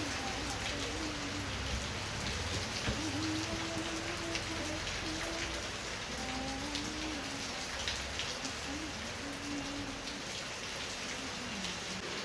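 Steady rain falling, with individual drops ticking.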